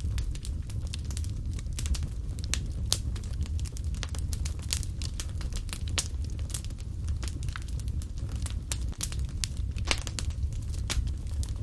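Fireplace fire crackling: many irregular sharp pops and snaps over a steady low rumble of the flames.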